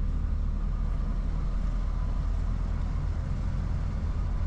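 Articulated lorry's diesel engine running with a steady low rumble as the truck moves slowly.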